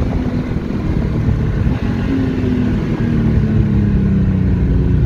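Turbocharged BMW M50B30 straight-six in an E30 running at low revs, heard from inside the cabin as a heavy low rumble. A faint engine tone slides slowly down in pitch through the second half.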